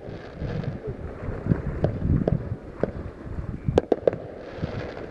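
Fireworks going off: a string of sharp bangs and cracks at uneven intervals, about half a dozen, over a low rumble.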